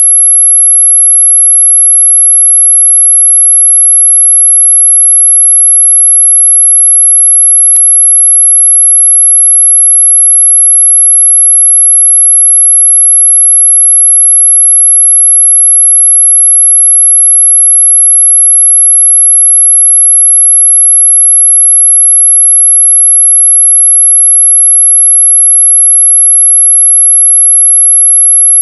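Steady, very high-pitched pure tone, a mosquito-repellent 'ultrasonic' sound, held unbroken and loud. A faint click comes about eight seconds in.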